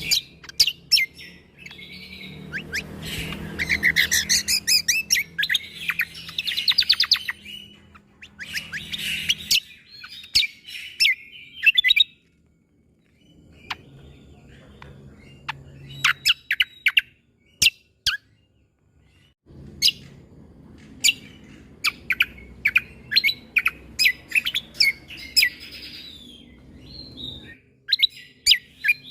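Cucak kombo song: bursts of sharp, clipped "shot" notes and fast trills, in phrases separated by brief pauses.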